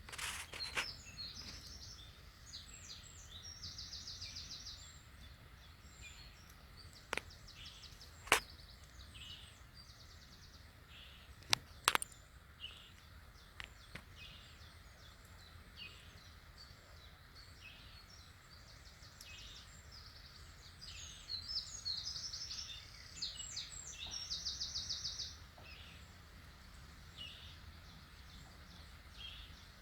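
Small songbirds singing and calling, with a fast trilled phrase heard twice, about a seventh of the way in and again past the three-quarter mark. A few sharp clicks sound in the first half.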